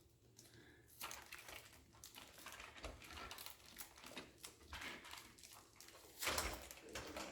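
Faint crackling and small clicks of sticky tape being picked and peeled off a model train car, with a louder rustle about six seconds in.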